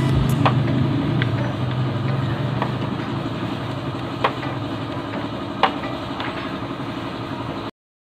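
Steady low mechanical hum with a handful of sharp metallic clicks, cutting off abruptly near the end.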